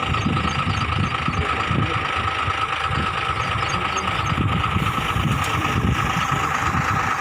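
An engine running steadily, with a rough low rumble and a steady hum.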